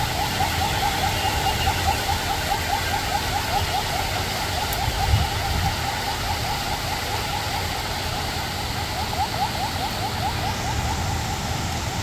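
Heavy, steady rain, with a fast run of short repeated chirps going on underneath it.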